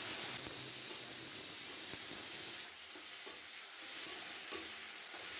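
A steady, loud hiss that starts abruptly, drops to a lower level about two and a half seconds in, and goes on with a few light clicks.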